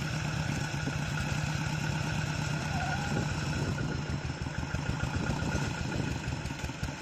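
Hand tractor's single-cylinder diesel engine running steadily with a rapid, even chugging.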